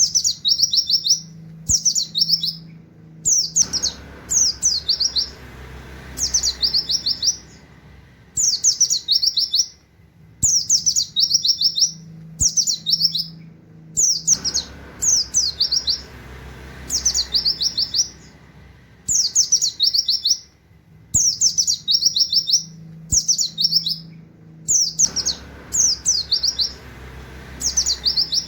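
Pleci (white-eye) singing in its rapid 'nembak' style, a canary-like 'wit wit' song. Short bursts of quick, high, falling notes repeat about once a second.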